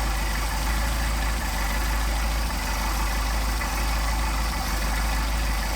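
Mercedes-Benz 190SL's four-cylinder engine, fed by twin Solex carburetors, idling steadily at a low idle while the carburetors are being synchronized.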